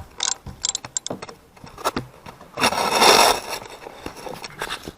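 Ratchet wrench clicking in short strokes as a bolt is backed out on the engine's rear cover, with a louder scraping rattle about three seconds in.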